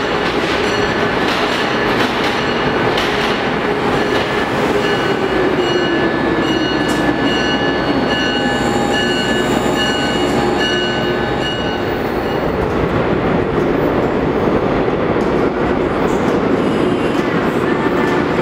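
HHP-8 electric locomotive and its passenger coaches rolling slowly past on the station track, with wheels clicking over rail joints. A humming tone from the train falls in pitch as it slows. High steady squeals ring out through the middle.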